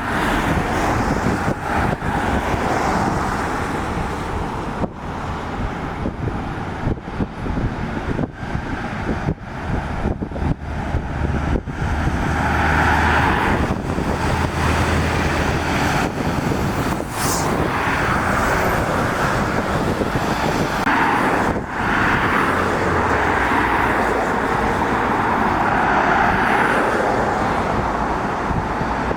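Road traffic on a wet road: lorries and cars passing one after another, their tyres hissing on the wet surface, with the low drone of a heavy truck's engine swelling as it goes by about halfway through.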